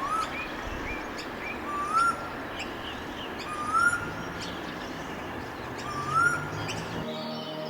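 Birds calling over a steady background hiss: a rising whistled note repeats about every two seconds, along with shorter chirps and high thin trills. Music comes in near the end.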